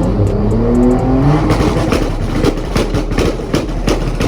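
A car engine revs up, then holds against a two-step launch-control limiter, cracking and popping rapidly from its exhaust.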